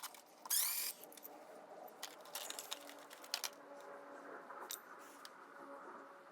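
Handling of tools and door-closer hardware: a brief rasping burst about half a second in, then scattered small clicks and taps.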